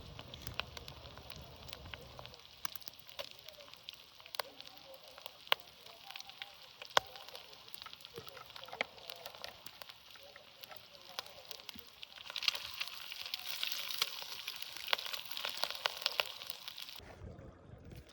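Lamb tail fat sizzling in a pan over a crackling open fire: sharp pops over a steady frying hiss. The hiss grows louder about twelve seconds in, then cuts off suddenly near the end.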